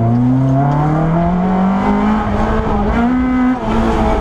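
Peugeot 205 GTI-6 rally car's engine heard from inside the cabin, accelerating hard with a steadily rising note. About three and a half seconds in there is a brief dip at a gear change, and then it pulls on.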